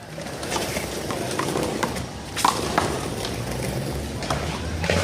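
Handball rally: the rubber ball slapping against hands, the wall and the concrete court in a string of sharp, uneven smacks, the loudest about halfway through.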